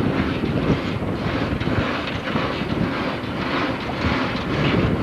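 A boat's engine running steadily as it motors along, mixed with wind and water noise.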